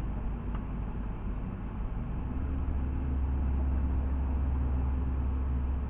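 Interior of a LiAZ 6213.65 articulated city bus in motion: a steady low engine and road rumble. About two seconds in it grows louder, with a steady hum.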